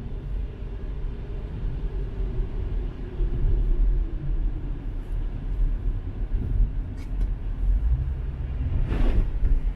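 Car driving along: a steady low rumble of engine and road noise, with a brief hissing swish about nine seconds in.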